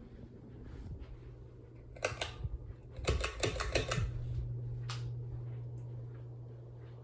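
A Monte Carlo Weatherford ceiling fan's motor hums steadily. Two bursts of rapid rattling clicks come about two seconds in and about three seconds in. After the clicking, about four seconds in, the motor hum steps up louder and holds steady.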